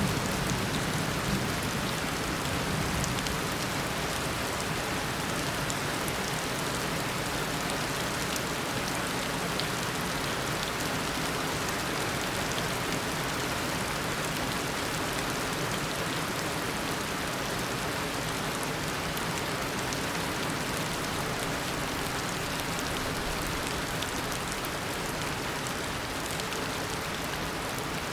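Heavy, steady tropical downpour, a dense even hiss of rain falling on surfaces. The low tail of a thunder rumble fades out in the first couple of seconds.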